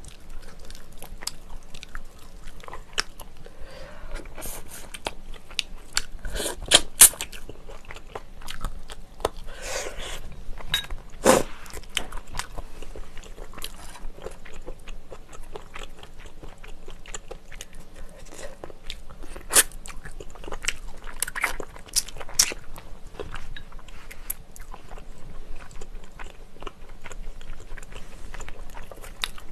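Close-miked chewing and biting: pork being eaten off the bone, with crunchy bites and sharp wet mouth clicks throughout. The loudest clicks come about 7, 11 and 20 seconds in.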